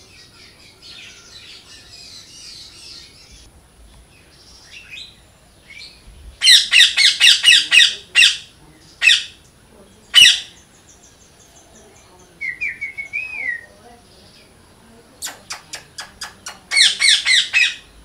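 Birds calling: quick runs of loud, harsh squawks, one about six and a half seconds in and another near the end, single squawks in between, a short warbling trill, and a row of sharp clicks.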